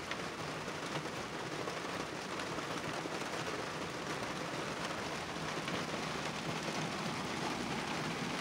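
Heavy rain pouring down on a truck, heard from inside the cab: a steady hiss of drops pattering on the body and windshield.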